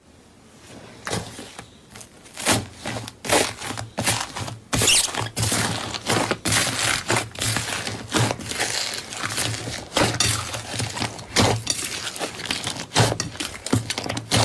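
Crunchy material being crushed, giving rapid, irregular crackles and snaps that start softly and grow denser about two seconds in.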